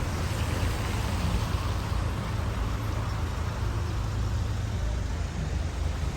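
Steady road noise: a low rumble with an even hiss over it, unbroken and without distinct events.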